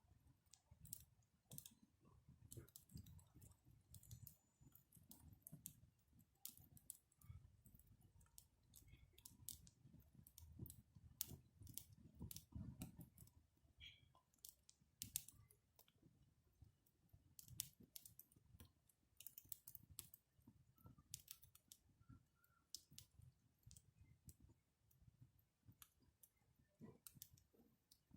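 Wood campfire crackling faintly: irregular sharp pops and snaps over a low, steady rumble.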